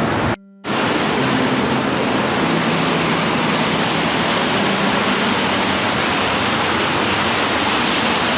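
Steady, heavy rain falling as an even hiss, broken once about half a second in by a sudden dropout to near silence lasting about a quarter of a second.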